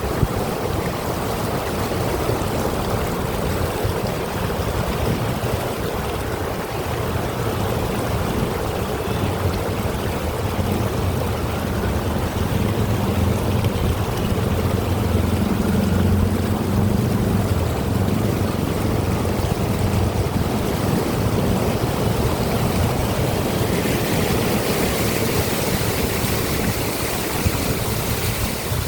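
Steady rush of heavy rain and flowing floodwater, with a low rumble underneath.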